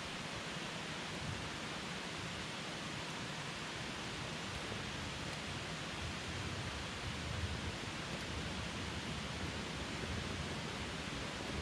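Wood campfire burning with a steady hiss of flames and a low rumble.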